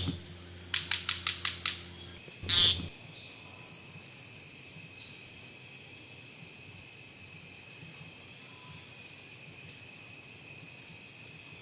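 Bird calls: a quick run of about seven sharp chirps, a loud sharp call, then a whistle that rises and falls. After that a steady high-pitched tone carries on.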